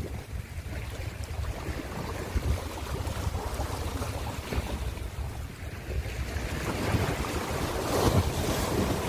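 Ocean surf washing steadily over a low, gusty rumble of wind on the microphone, with a wave breaking more loudly about eight seconds in.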